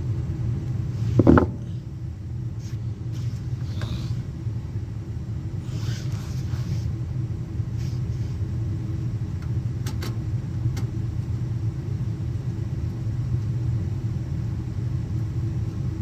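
A steady low mechanical hum, with a short knock about a second in and a couple of faint clicks around ten seconds in.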